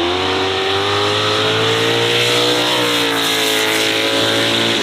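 McMurtry Spéirling electric fan car running up the hill climb with a high, steady whine. The pitch rises slowly over the first few seconds, dips a little, then holds.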